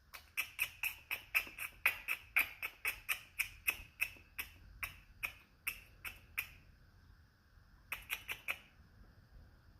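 Squirrel chattering: a rapid run of sharp, clicking calls at about four a second, breaking off after about six seconds, then a short burst of about five more near the end, typical of a squirrel's alarm call at a cat.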